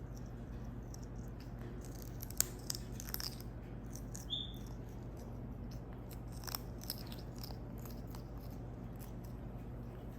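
African grey parrot eating vegetables, its beak making scattered sharp clicks and nibbling sounds, with one short high chirp about four seconds in.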